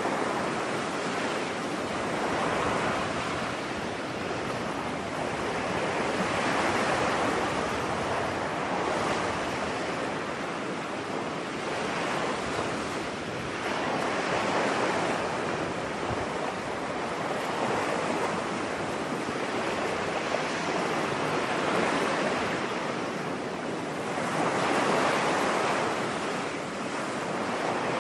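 Ocean surf washing onto a beach: a steady hiss of breaking waves that swells and ebbs every few seconds.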